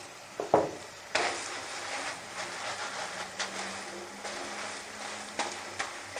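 Paratha frying in ghee on a flat tawa griddle, sizzling steadily from about a second in, with a few short touches and scrapes of a wooden spatula pressing it against the pan.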